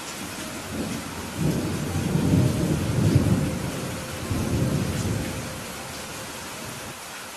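Thunder rumbling over steady heavy rain. The rumble builds about a second in, rolls in two or three swells through the middle, and fades out near the end, while the rain hiss continues throughout.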